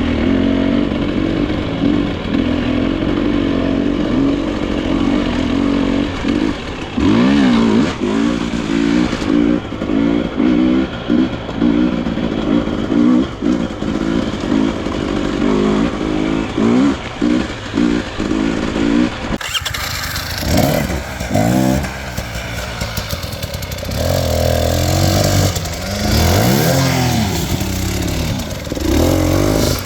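Dirt bike engine running loud, blipped over and over with short bursts of throttle, then from about two-thirds through revving up and down in longer rising and falling sweeps.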